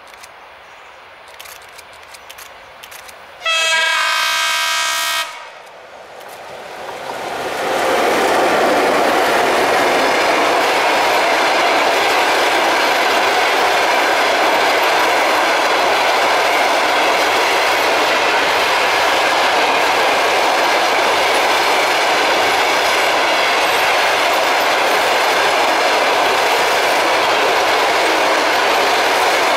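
ChS7 electric locomotive sounds its horn once, a chord held for about two seconds, a few seconds in. Then the locomotive and its passenger coaches pass close by, their wheels on the rails building from about six seconds in to a loud, steady rush.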